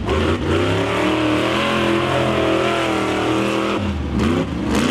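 Monster truck engine running hard under throttle, its pitch wavering up and down; the revs drop briefly about four seconds in and then climb again.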